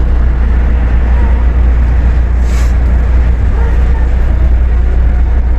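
Osaka Monorail straddle-beam train running along its guideway, heard from inside the car: a loud, steady low rumble of its rubber tyres and drive, with a brief hiss about two and a half seconds in.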